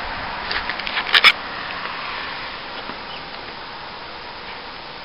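Steady rushing noise of blizzard wind, with a short cluster of sharp clicks and knocks about a second in.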